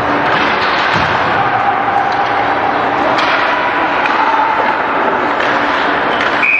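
Loud, steady crowd and arena noise in an ice hockey rink, with a few faint knocks from sticks and puck during play.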